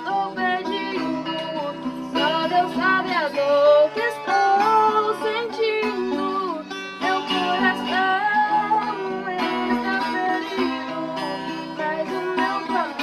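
Singing of a Portuguese worship song, accompanied by a viola caipira played with plucked and strummed chords.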